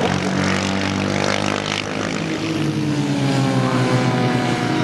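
Vintage racing motorcycle engines running hard, a steady engine drone whose pitch slides gradually lower through the second half as a bike passes or backs off.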